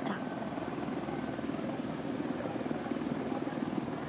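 Steady drone of an engine with a fast, even chopping pulse.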